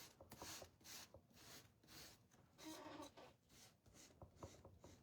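Fine-grit sandpaper rubbed back and forth over a painted cutting board by hand, making faint, even scratchy strokes about twice a second.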